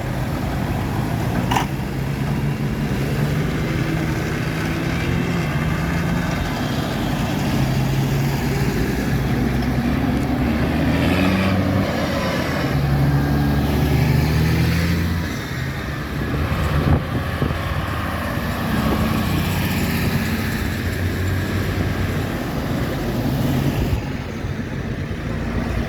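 Diesel engines of tractors and other vehicles driving past one after another, a steady low engine note that changes pitch as each one goes by.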